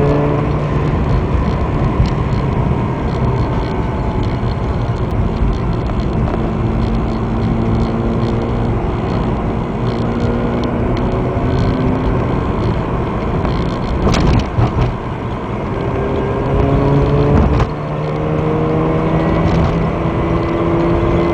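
Mazda RX-8's two-rotor rotary engine heard from inside the cabin while driving, over steady road noise. The engine note climbs as the car accelerates and drops sharply at a gear change about three-quarters of the way through, then climbs again.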